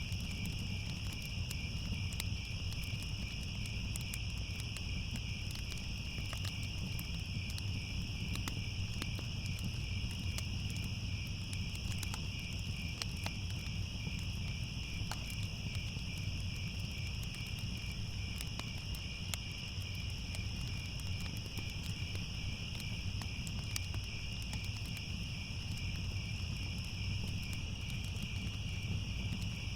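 Crickets trilling steadily and continuously, over a fire crackling with scattered sharp pops and a steady low rumble underneath.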